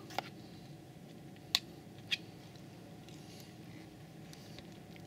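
A person eating quietly: faint chewing, with three sharp clicks in the first two seconds or so.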